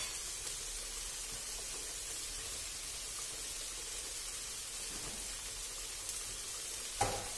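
Aubergine cubes frying in olive oil in a pan, a steady sizzle, with a single light knock near the end.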